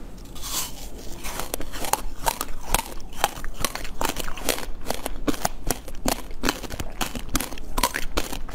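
A person biting and chewing crunchy food, a dense run of irregular crisp crackles and crunches several times a second.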